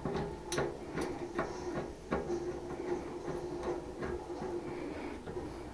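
Light clicks and knocks of parts being handled and fitted back together during reassembly of an air-conditioning unit's blower motor, scattered a second or so apart over a faint steady hum.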